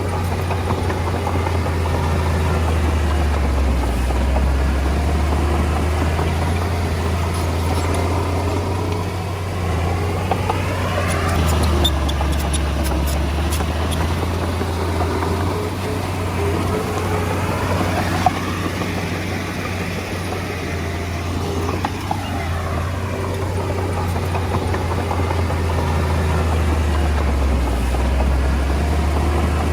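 Komatsu D20A bulldozer's diesel engine running steadily, its pitch swinging up and down twice, about a third and two-thirds of the way in. There is a single sharp click about 18 seconds in.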